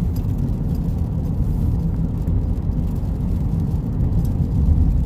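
Steady low rumble of road and engine noise inside a moving four-wheel-drive vehicle's cabin.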